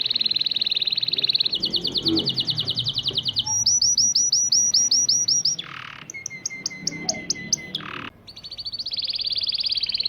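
Syrian local (baladi) canary singing a chain of rapid high trills and repeated notes, switching to a new phrase every second or two. Near the middle come a couple of quick sweeping notes and a slower run of repeated notes, before a fast trill takes over again.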